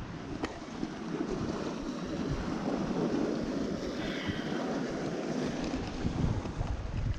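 Steady rushing of wind on the microphone at the water's edge, with a faint click about half a second in.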